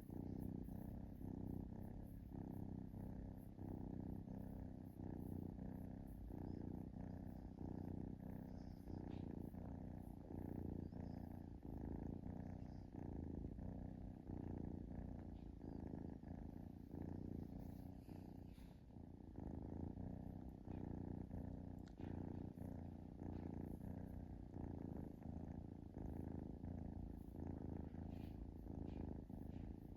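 Kitten purring steadily, the purr swelling and easing in a regular rhythm.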